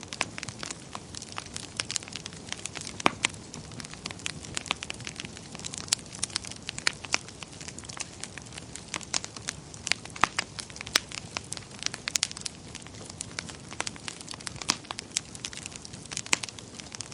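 Wood fire in a fireplace crackling, with irregular sharp pops and snaps over a low steady hiss of burning.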